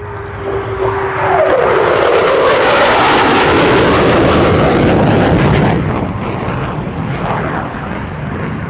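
Eurofighter Typhoon's twin jet engines on a fast pass: a steady whine drops sharply in pitch about a second and a half in as the jet goes by, then a loud rushing noise for several seconds that eases off.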